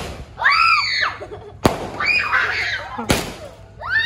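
Aerial fireworks bursting with two sharp bangs about a second and a half apart, between high-pitched shrieks.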